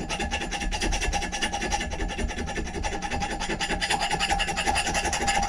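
Steady, fast scraping of an abrasive tool against the steel head of an old axe as it is cleaned up.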